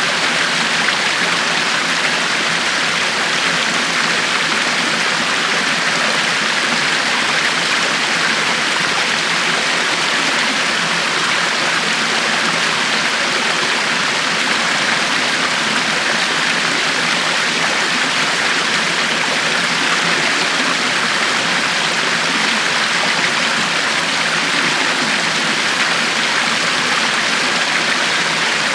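River water flowing steadily: a constant rushing and splashing with no breaks.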